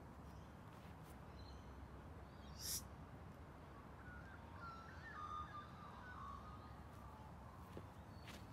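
Quiet outdoor ambience with faint, distant bird calls through the middle. There is a short, scratchy noise about three seconds in.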